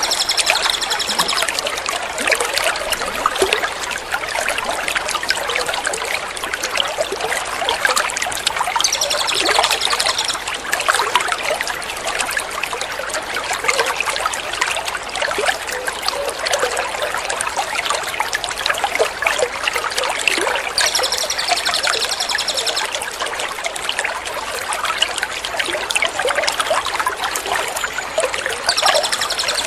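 Steady trickling water, looped as a water-therapy track for training songbirds. Four times a rapid run of high repeated bird notes, each about a second and a half long, plays over it.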